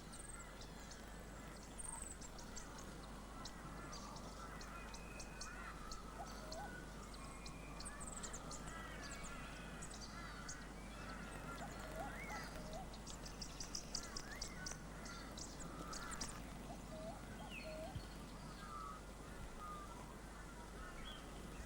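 Faint animal calls: many short chirps and twitters, small hooked calls in pairs, and scattered brief clicks, over a steady low hum.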